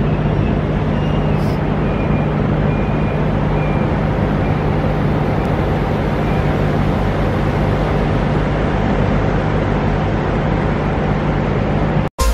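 Steady road and engine noise of a vehicle driving on a highway, with a low even hum; it cuts off suddenly near the end.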